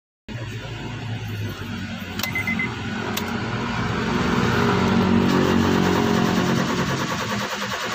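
2017 Honda City's four-cylinder engine running and being revved, growing louder from about three seconds in and then holding, with two sharp clicks at about two and three seconds. The car has no pull and jerks when revved, a fault the mechanic traces to the crankshaft sensor or the fuel pump and then to a fuel pump that gives no fuel.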